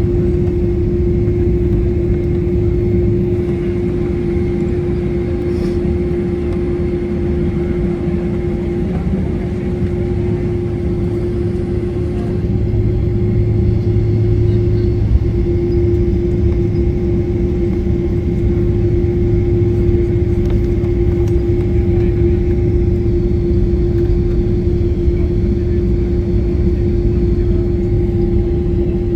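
Steady vehicle running noise: a low rumble with a constant hum that does not change.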